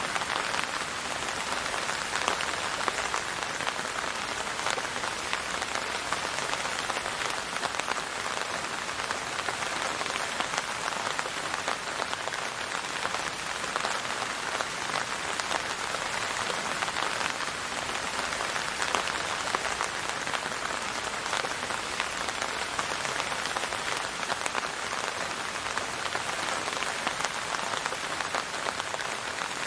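Steady rain falling, a dense even hiss with many small droplet patters.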